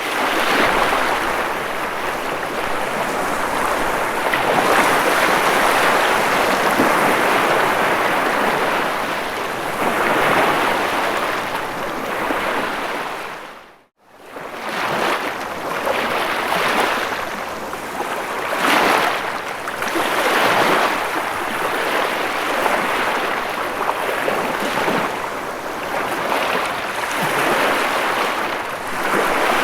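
Ocean waves washing onto a shore, a continuous surf hiss with repeated swells. The sound cuts out for an instant about halfway through, then resumes.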